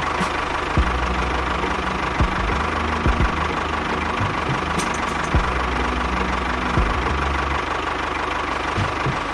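A small machine running steadily: a dense rattling noise with a steady mid-pitched whine through it, and a few sharp knocks scattered across it.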